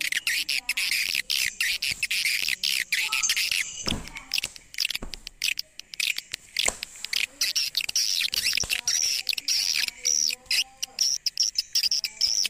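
Swiftlets chirping: a dense, fast, high-pitched chittering that runs on without pause, the swiftlet call sound used to lure the birds to a swiftlet house.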